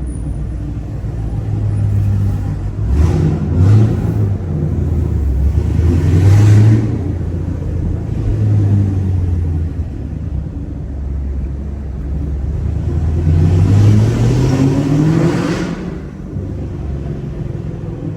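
Chevrolet Camaro SS 1LE's naturally aspirated V8 running while driving, with a low, steady drone. The engine pitch climbs under throttle a few seconds in, then again in a longer climb near the end that drops off suddenly as the throttle closes for a shift in the manual gearbox.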